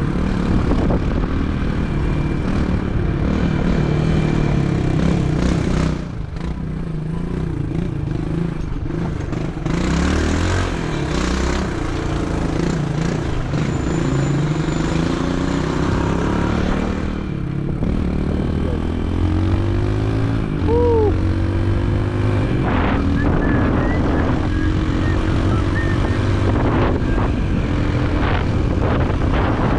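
Motorcycle engine running under way, its pitch rising and falling as the throttle is opened and closed, over steady road noise.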